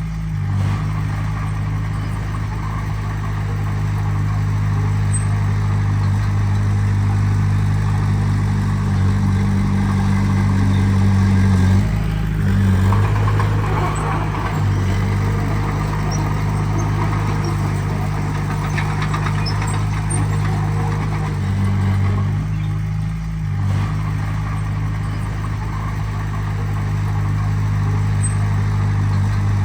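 Heavy diesel engine of an earthmoving machine running steadily at one pitch. Its note shifts briefly about twelve seconds in and again near twenty-three seconds.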